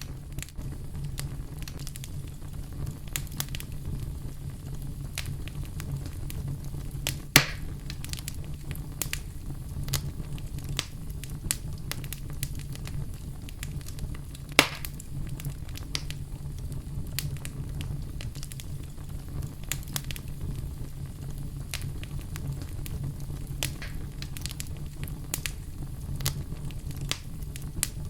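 Wood fire burning in a fireplace: a steady low rumble of flames under scattered crackles, with two loud sharp pops, one about a quarter of the way in and another about halfway.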